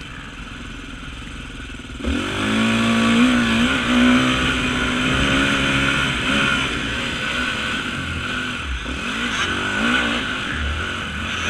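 Off-road motorcycle engine revving hard: it picks up sharply about two seconds in, holds high revs for several seconds, then rises and falls in quick throttle changes near the end.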